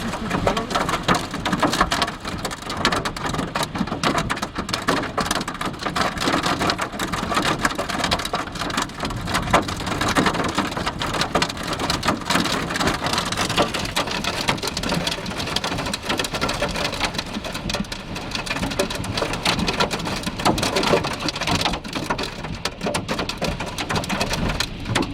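Heavy rain mixed with hail pounding on a vehicle, a dense, steady clatter of countless small hits.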